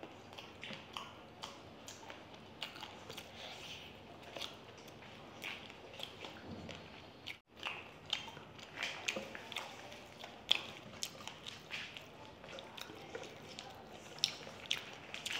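Two people chewing and biting into noodles and fried chicken, close to the microphone: wet smacking mouth sounds and many short clicks. The sound drops out briefly about seven seconds in.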